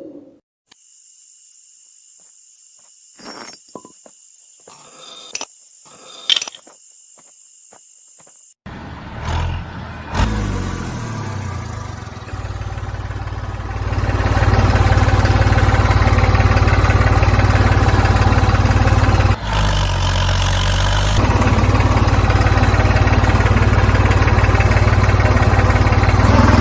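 For the first few seconds there is a faint high whine and a few sharp clicks. About nine seconds in, an engine-like running sound starts, builds over a few seconds and then runs loud and steady, dipping briefly once later on.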